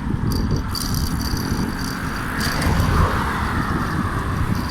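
Wind buffeting the microphone of a moving bicycle on the road, with a motor vehicle passing; the passing swell is loudest about three seconds in.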